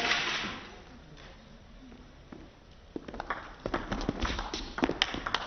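Crowd clapping and voices die away, then about three seconds in a table tennis ball begins clicking sharply off paddles and the table in quick, irregular succession as a rally is played.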